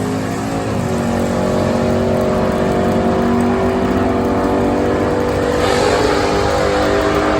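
A race car's engine running loud and steady. Its pitch dips about half a second in, then holds almost level with a slight rise.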